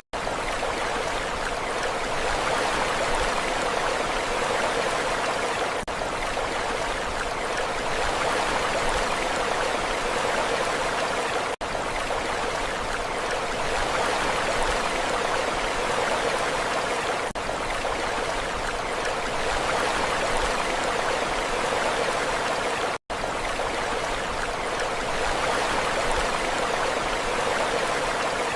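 Steady rushing water, an even hiss with no distinct wave crashes. It breaks off for a split second twice, about 11 and 23 seconds in.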